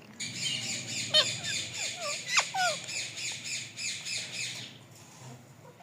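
Parrot giving a rapid, raspy, rhythmic call about four times a second, with a few short sliding squawks over it; the calling stops near the end.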